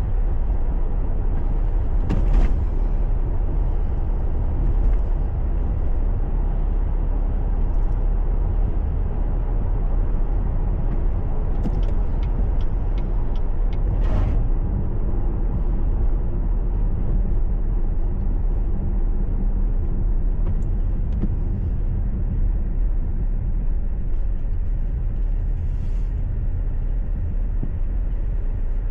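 Steady low rumble of a car driving on the road, engine and tyre noise, recorded by a dashcam. A short run of light clicks sounds about twelve to fourteen seconds in.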